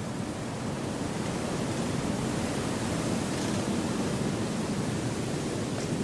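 Steady rushing of wind through forest trees, swelling slightly in strength.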